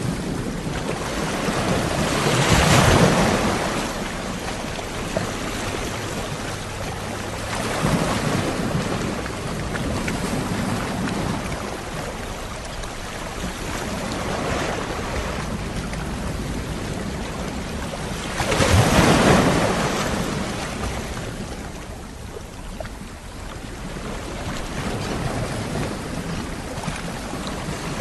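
Sea waves breaking on the shore in slow, rushing swells, the loudest about three seconds in and another about two-thirds of the way through.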